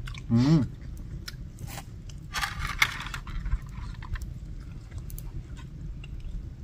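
Someone biting and chewing a crisp, slightly hard puri, with crunching about two and a half seconds in. A short voiced sound comes near the start.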